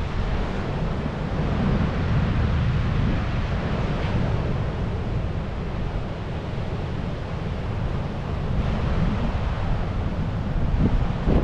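Ocean surf washing on the shore with steady wind, the wind rumbling and buffeting on the microphone.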